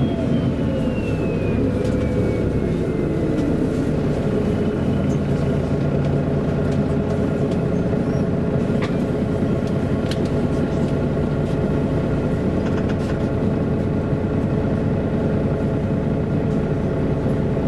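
MAN A23 articulated city bus running on the road, heard from inside: a steady drivetrain hum, with a whine that falls in pitch over the first few seconds.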